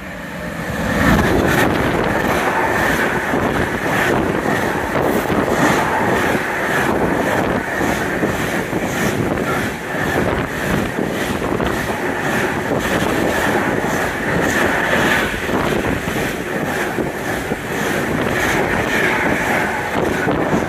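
A Class 66 diesel locomotive, with its EMD two-stroke engine, approaches and passes close by at speed, then a long intermodal container train rolls past. The wheels clack steadily, about twice a second, over a constant loud rush of wheel and wind noise.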